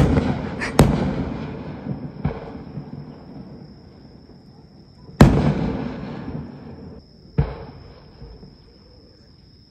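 Aerial fireworks shells bursting, five sharp bangs, each with a rumbling echo that dies away. Two come close together at the start, a weaker one follows about two seconds in, the loudest is about five seconds in, and a last one is about seven seconds in.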